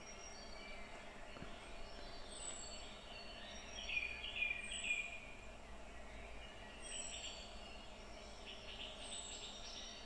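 Woodland birds singing faintly: a thin, very high note sliding downward, repeated about every two seconds, with a louder run of chirps around four to five seconds in.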